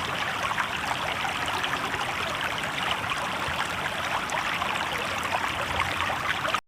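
Shallow river water babbling and trickling over stones, a steady close splashing with many small droplet sounds. It cuts off suddenly just before the end.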